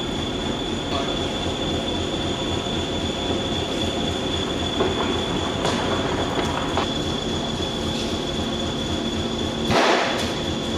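A train running on the rails: a steady rumble of wheels and track noise, with a short louder rush of noise near the end.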